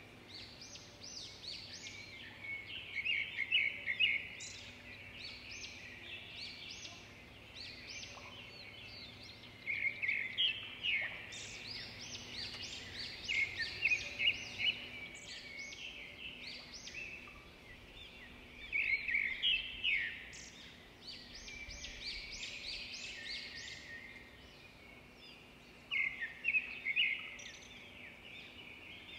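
Small birds chirping in repeated bursts of quick, high chirps, with quieter stretches between them.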